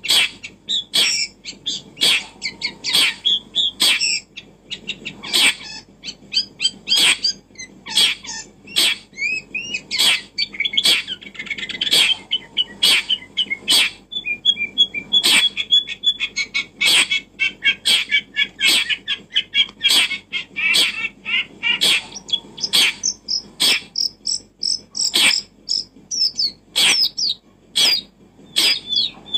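Birds chirping: sharp short calls about once or twice a second, with warbling between them.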